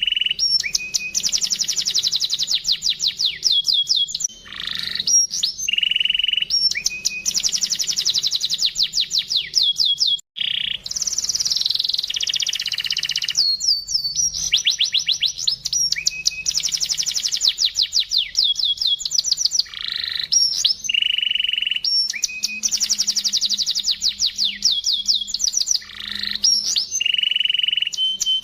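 Canary singing: fast trills of rapid notes high in pitch alternate with held whistled notes and rolling passages, in phrases that repeat every five seconds or so.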